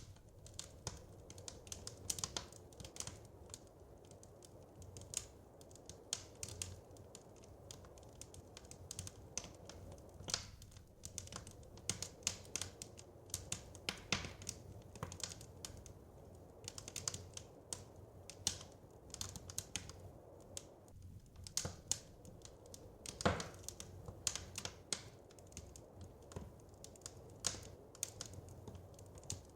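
Wood fire crackling in a fireplace: irregular sharp pops and snaps over a steady low rumble, with one louder pop about 23 seconds in.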